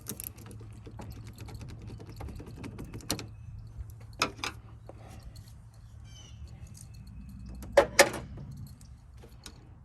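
Hand tools clicking and clinking on a car battery's ground terminal and its metal hardware, with a few sharp metallic knocks, the loudest pair about eight seconds in, over a steady low hum.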